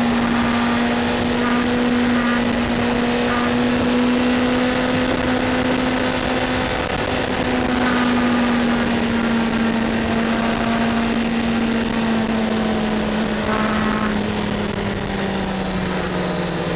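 Yamaha FZ6 Fazer 600's inline-four engine running hard under way, heard from on board with wind rush. Its pitch holds steady, then falls slowly over the second half as the revs come down.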